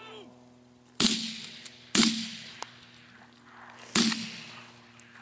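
Three shotgun shots during a duck hunt, the first two a second apart and the third two seconds later, each ringing out after the blast.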